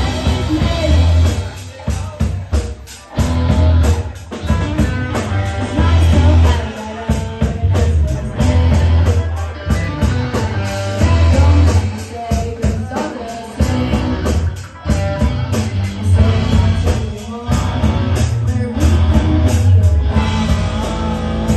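A rock band playing live, with vocals, electric guitar, bass and drums.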